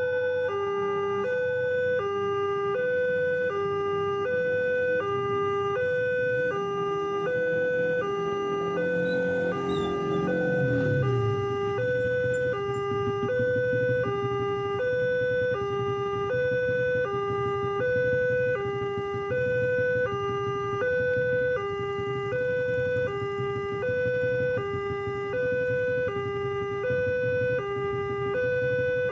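Railway level-crossing warning alarm sounding an even two-tone electronic alternation, high-low, repeating without a break. About ten seconds in, a passing engine drops in pitch, and a steady low engine drone then continues beneath the alarm.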